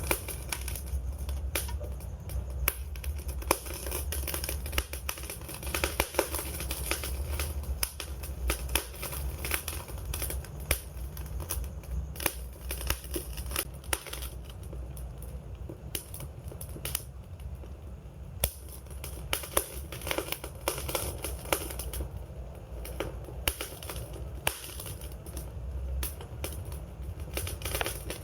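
Wood fire crackling, with dense, irregular pops and snaps over a steady low rumble.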